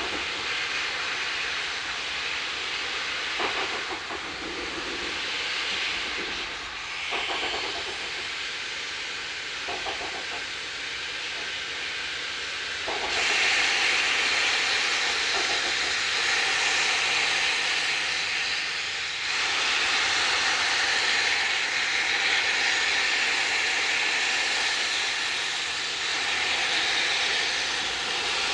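2ft-gauge Garratt steam locomotives hissing steam. A few short louder surges come in the first ten seconds, then from about halfway the hiss becomes steadier and louder.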